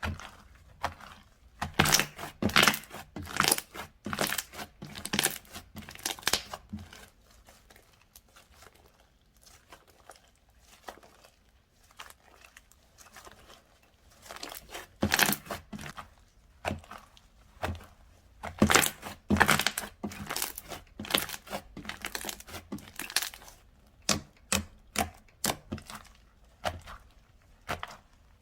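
Slime being squeezed and worked by hand, giving crackling, popping clicks in irregular clusters, with a quieter pause from about 8 to 14 seconds in.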